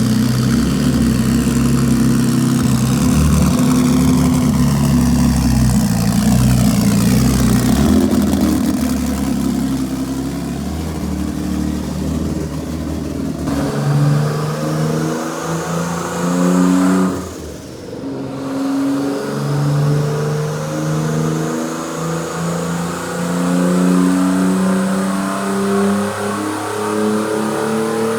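Twin-turbo BMW M50 straight-six engine running loud and being revved repeatedly. Its pitch climbs and drops, with a high turbo whine rising and falling over the engine note. The sound changes about halfway through, and near the two-thirds mark the revs fall off briefly, then climb again.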